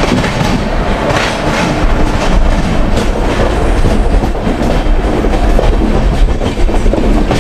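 Passenger train coach rolling along the track, a steady rumble of wheels and running gear with irregular clicks as the wheels pass over rail joints.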